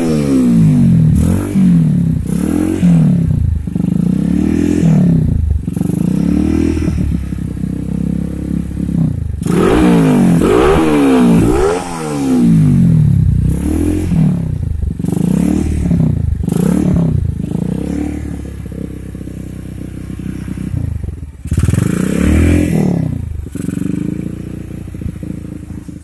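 Motorcycle revved again and again through a gutted (bobok) stock Yamaha Scorpio exhaust with an R Speed neck pipe, the pitch rising and falling with each blip of the throttle; the revs ease off somewhat over the last few seconds.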